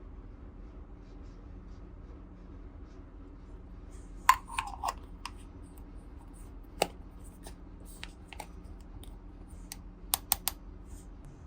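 Small plastic toy pieces clicking and tapping as they are handled, in scattered sharp clicks with a quick run of three near the end, over a steady low hum.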